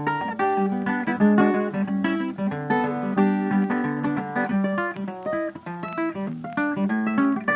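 Background music: acoustic guitar playing a quick run of picked notes and chords.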